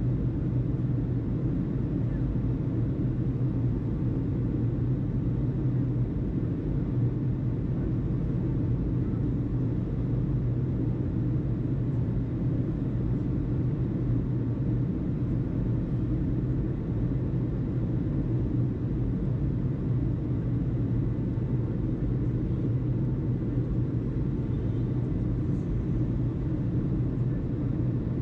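Steady low rumble of background noise, unchanging throughout, with no radio voice on top.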